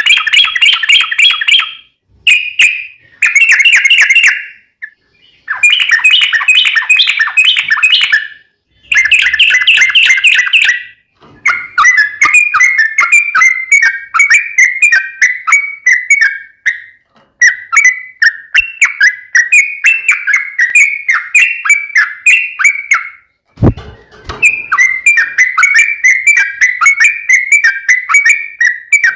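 Yellow-vented bulbul (trucukan) singing long, rapid runs of notes in repeated phrases. The runs are broken by short pauses in the first ten seconds and are near-continuous after that. There is a brief low thump about 24 seconds in.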